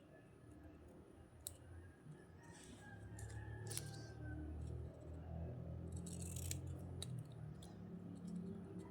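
Scissors cutting paper, with a few sharp clicks and two longer cuts, over a low background hum that grows louder about three seconds in.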